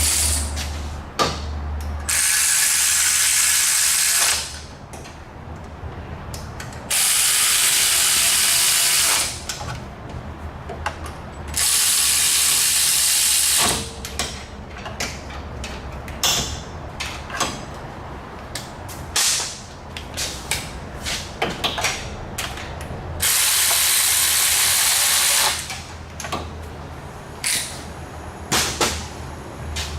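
Air-powered tool running in four bursts of about two seconds each, with hand-ratchet clicking between them, as fasteners on the 5.7L Dodge Ram's exhaust manifold are run down.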